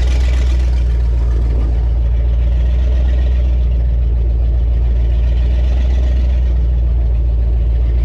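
2002 Donzi Classic 22's engine idling steadily, a constant low drone.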